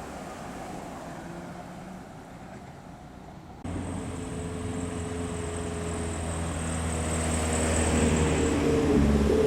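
Car engines running as cars pull away. About a third of the way in the sound jumps abruptly louder. A car's engine then grows steadily louder as it comes closer, its note rising near the end.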